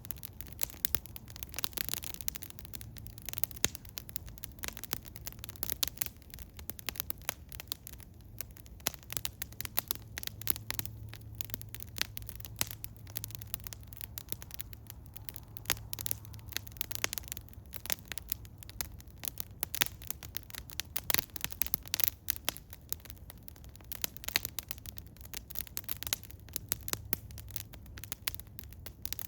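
Eastern hemlock wood fire crackling, with many irregular sharp snaps and pops over a low steady hum.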